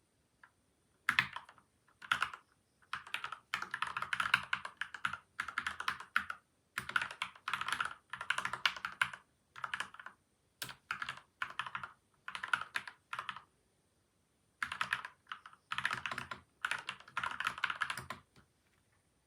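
Typing in bursts on a PCL87 mechanical keyboard with lubed Gateron Milky White and Outemu Yellow switches and stabilizers, dampened with two layers of tape and foam. Runs of rapid keystrokes are broken by short pauses, with a longer pause a little past the middle.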